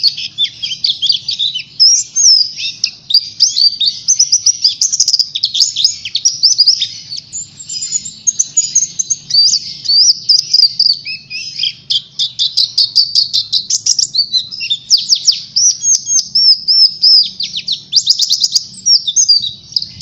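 White-eye (pleci) singing a long, unbroken twittering song of rapid high chirps and quick downward sweeps, with fast trilled runs in places; this full, vigorous singing is what keepers call 'gacor'.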